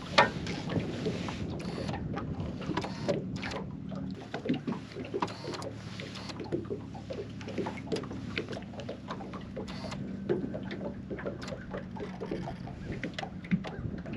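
Electric trolling motor humming steadily while small wind-driven waves lap and tick against the fishing boat's hull, holding the bow into the wind.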